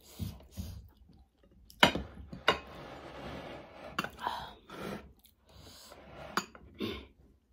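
Close-up chewing while eating a meal, with about five sharp clicks scattered through, the loudest a little under two seconds in.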